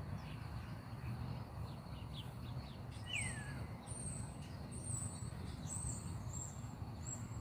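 Small birds chirping: a few faint chirps, then about three seconds in one falling note and a run of short, high, thin notes. A steady low rumble runs underneath.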